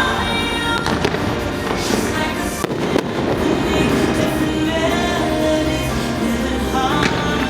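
Fireworks bursting over the show's music soundtrack, with sharp bangs about a second in, around three seconds in and near the end.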